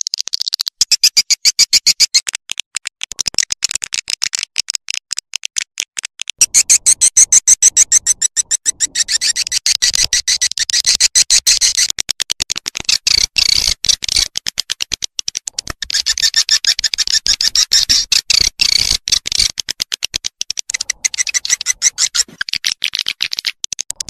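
Swiftlet lure call: dense runs of rapid, high twittering chirps and clicks with short breaks. This is the kind of call played in swiftlet houses to draw the birds in to roost.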